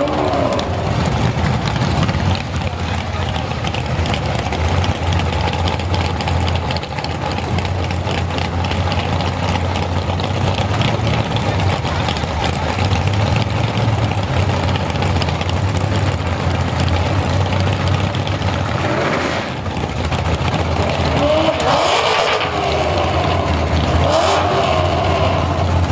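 Dodge Challenger drag car's engine running at the start line, revved once about three-quarters of the way in, then launched hard with a loud rev about 22 seconds in and again a couple of seconds later. The Hoosier drag tyres hook hard on this launch and the rear axle breaks.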